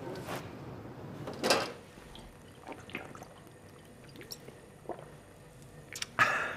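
Scattered sharp knocks and clinks, the loudest about a second and a half in and just before the end, amid sounds of a man drinking from a glass bottle.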